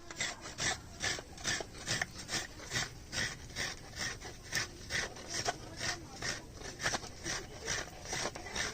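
Fresh coconut being grated by hand: an even run of rasping scrapes, about two or three strokes a second.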